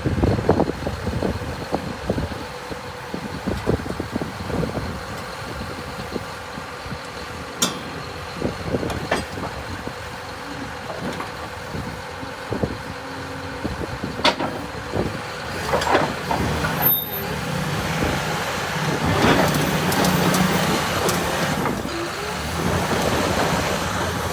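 John Deere 850K LT crawler dozer's diesel engine running steadily, with irregular clanks and knocks throughout and a few sharp clicks.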